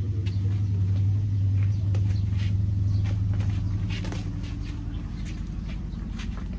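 A motor running steadily with a loud, low hum, with scattered light clicks and taps over it.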